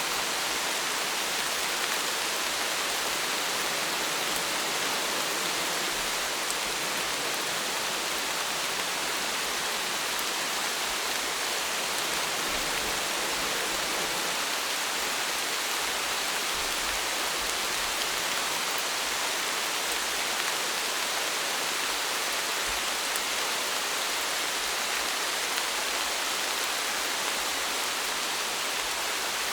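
Steady rainfall: an even hiss of rain with faint scattered drop ticks, unchanging in level.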